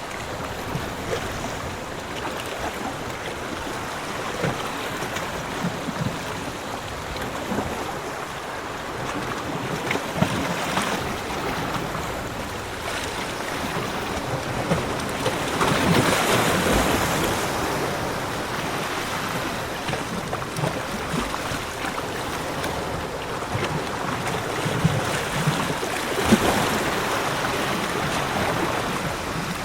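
Ocean waves washing onto a beach: a steady rush of surf that swells into louder breaks about halfway through and again near the end.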